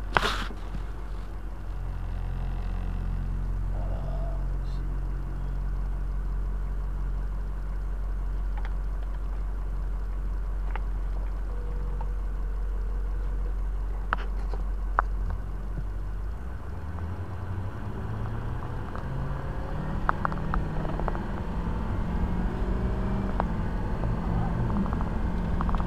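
Vehicle engine running and road rumble heard from inside the cab, with a sharp knock at the very start as the cab-mounted camera is handled and a few faint clicks later. The low engine hum changes about two-thirds of the way through.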